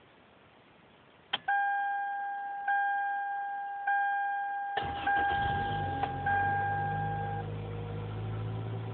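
Remote-started 1999 Toyota Corolla's four-cylinder engine going through its restart cycle: a relay click, then an electronic chime sounding about every second, then about five seconds in the engine starts and idles steadily while the chime keeps on briefly. It is part of the loop in which the remote starter starts the car, lets it die and starts it again.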